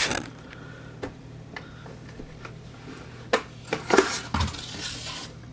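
Scattered light clinks and knocks of hard objects being handled, with a louder cluster about four seconds in, over a steady low hum.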